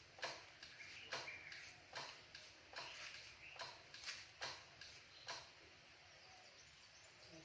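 Faint sharp clicks about once a second from a motorcycle's hydraulic front brake being bled, as the brake lever is pumped. The clicks stop about five seconds in.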